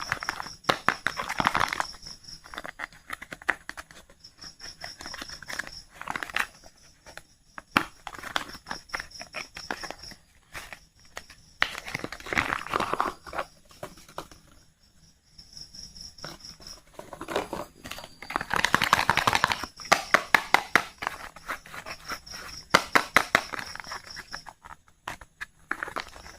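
Soap wrapper and carton crinkling and rustling in the hands as the soap is unpacked, in irregular bursts of crackling with quieter pauses between. A faint high pulsing tone comes and goes behind it.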